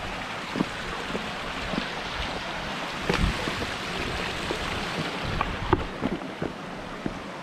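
Steady rush of water from a waterfall and stream, with scattered light knocks and a low thump about three seconds in.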